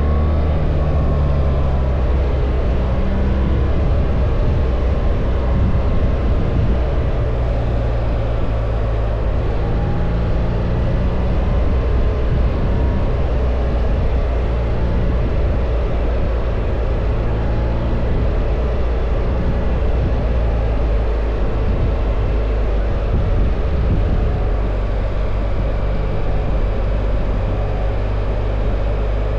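BMW R1300 GS boxer-twin engine running under way, with steady wind rush; the engine note steps up and down a few times with throttle changes.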